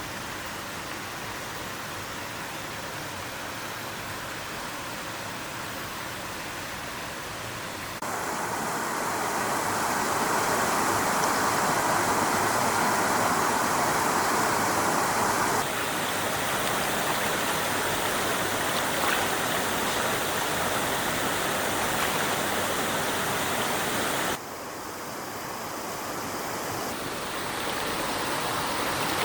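Stream water running, a steady rush that jumps louder about eight seconds in and shifts abruptly in loudness and tone a few more times.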